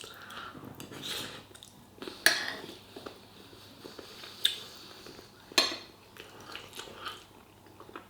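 Cutlery clinking and scraping on a dinner plate while eating, with three sharper clinks spread through the stretch and quieter scrapes between.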